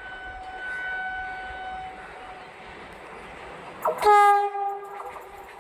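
Train horn sounding twice over the rumble of a train: a fainter blast of about two seconds at the start, then a louder, lower blast of about a second, about four seconds in.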